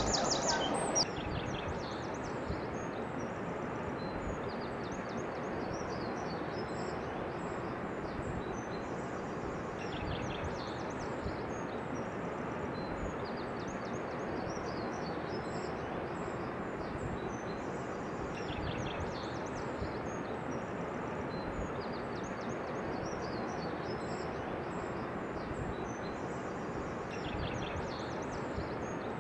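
Small birds chirping and calling again and again over a steady rushing background noise outdoors.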